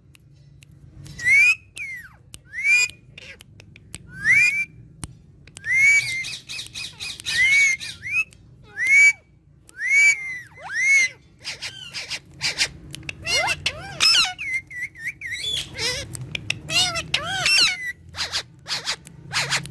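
Pet green parrots calling: loud, short squawks that rise and fall in pitch, one every second or so, turning into quicker, denser chattering and squawking in the second half.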